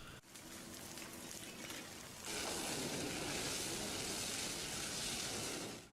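Lava flow sizzling and crackling as it burns what lies in its path: a steady hiss that grows louder about two seconds in.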